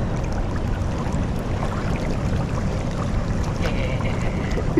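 Steady wind noise buffeting the microphone, a low, even rush with no breaks.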